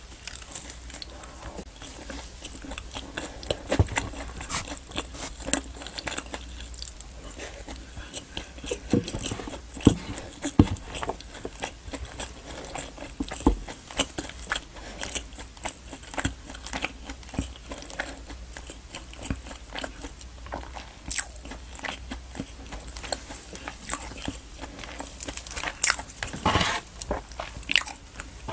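Close-miked biting and chewing of naan dipped in butter chicken curry: many small mouth clicks, with a longer, louder noise near the end.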